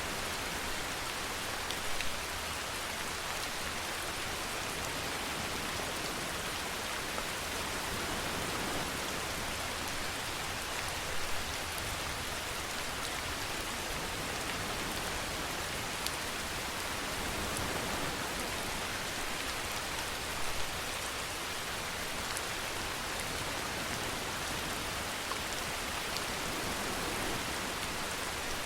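Steady rainfall: an even hiss with scattered single drops ticking, and a few brief louder spatters.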